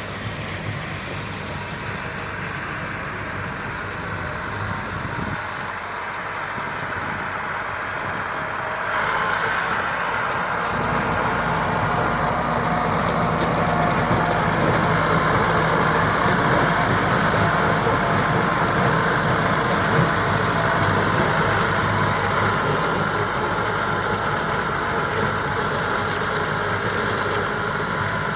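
Massey Ferguson 385 tractor's four-cylinder diesel engine running steadily. About nine seconds in it gets louder and harsher and stays that way.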